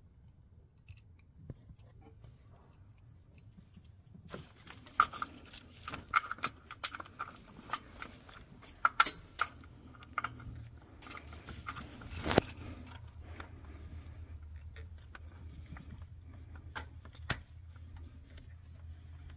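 Small metal hand tools and parts clicking, clinking and scraping in an irregular burst, then two sharp clicks near the end, over a faint low hum.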